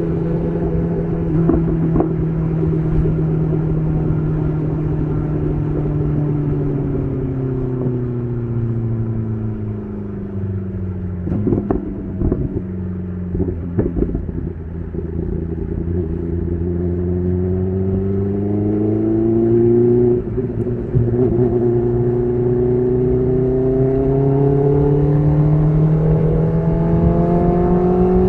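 BMW S1000RR's inline-four engine through an SC Project CR-T titanium exhaust, its note falling steadily as the bike slows over the first half. A few short sharp bursts come around the middle, and then the note climbs steadily as the bike accelerates.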